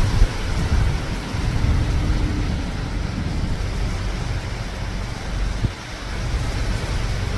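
Strong storm wind gusting and buffeting the microphone, a heavy, uneven rumble that rises and falls.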